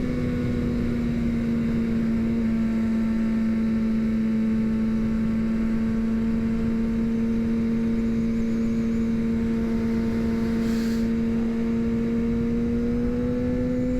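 Suzuki GSX-R750 inline-four engine running steadily at high revs under way, over a steady rushing noise. The pitch eases a little about two seconds in and rises again near the end.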